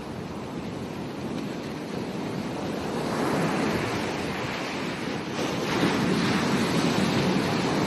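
Ocean waves breaking and washing up a beach, the surf swelling louder about three seconds in and again about six seconds in.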